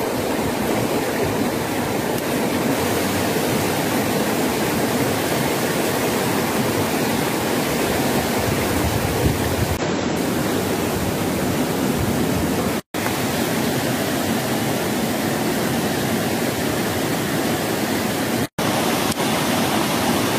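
A steady, even rushing noise, cut to silence for an instant twice, once past the middle and once near the end.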